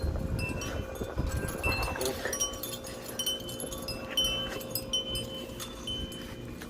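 Wind chimes ringing, with many short, scattered high notes sounding one after another.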